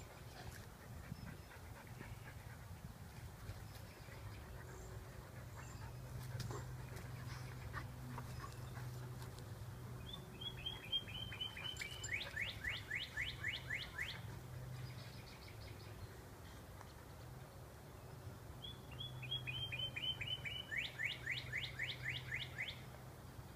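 A songbird sings the same phrase twice: a quick run of short high notes, then a fast series of downward-sweeping notes. A steady low hum runs underneath.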